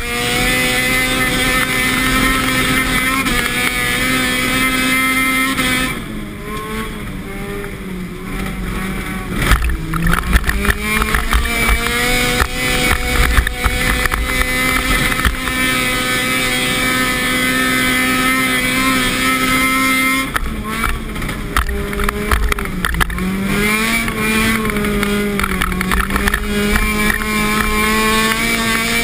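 Car engine heard from inside the cabin, held at high revs while being driven hard on snow and ice. The revs drop and waver twice, about six seconds in and again about twenty seconds in, then climb back, with a spell of sharp knocks and rattles around ten to fifteen seconds in.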